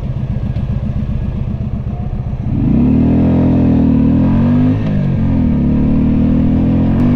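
Keeway V Cruise 125's V-twin engine idling at a standstill, then revving up as the bike pulls away about two and a half seconds in. Its note rises, drops briefly at a gear change and climbs again, with a subdued tone from the stock exhaust.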